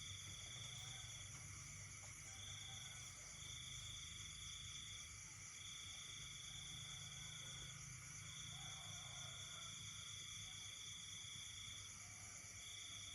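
Night chorus of insects and frogs: a high trill that sounds in runs of a few seconds with short breaks, over a steady shrill insect drone, with faint lower calls now and then.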